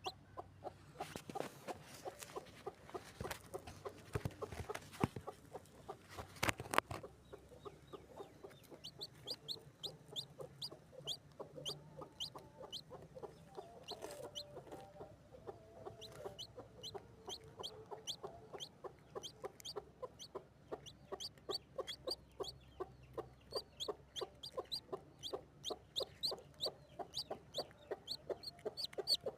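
Pigeons calling: a steady run of short clicks and brief high peeps, a few a second.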